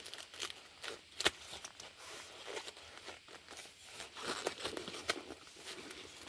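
Irregular rustling and crackling with scattered sharp clicks, the sharpest snap about a second in.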